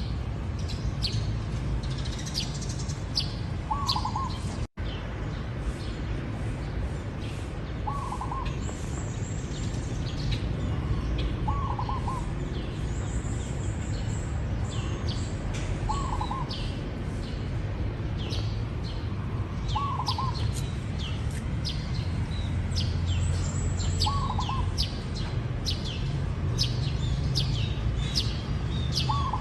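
Zebra dove cooing: a short rolling phrase repeated about every four seconds, over a constant scatter of high chirps from small birds and a steady low rumble. A split-second dropout about five seconds in.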